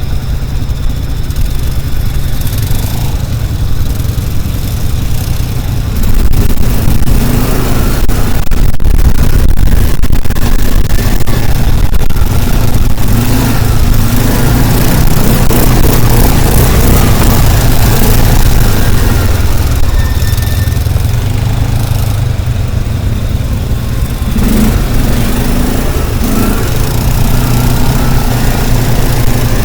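A motor vehicle's engine running close by, with a heavy low drone that gets louder about six seconds in as it picks up speed, then eases a little later on.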